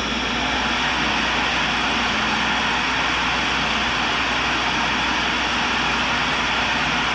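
Tool and cutter grinder running, its grinding wheel spinning with a steady, even whirring hiss that rises slightly about half a second in.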